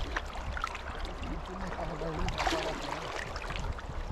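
Flowing river water, a steady rushing noise with a low rumble, with a faint voice talking over it from about a second in.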